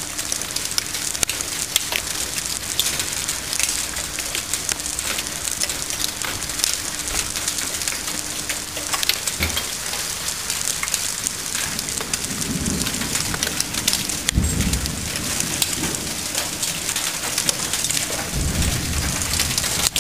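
Hailstones and rain pelting down as a dense, steady patter full of sharp little clicks of stones striking hard surfaces. A few deep, low rumbles swell up in the second half.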